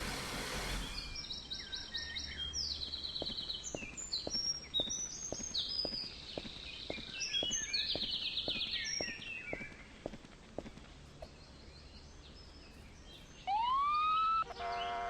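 Birds chirping and singing in repeated quick phrases, over a faint ticking about twice a second. It opens with a brief burst of noise, and near the end a louder gliding tone with several overtones comes in.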